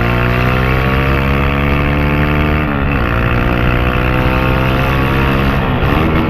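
Honda CG 160 single-cylinder engine through a homemade tin-can exhaust tip, accelerating on the road: the pitch climbs, drops sharply about three seconds in, climbs again and drops near the end, like upshifts. The rider says the bike is misfiring a lot.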